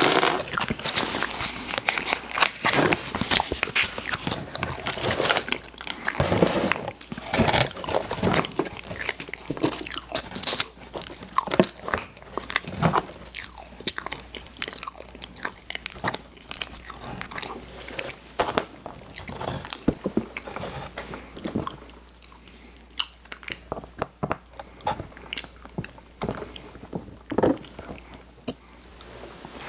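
A person biting and chewing sweets: a close, dense run of sharp mouth clicks and chews, busiest in the first half and sparser later.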